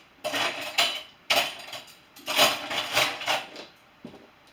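Dishes and cutlery clinking and clattering as they are loaded into a dishwasher, in three short bouts, then a pause near the end.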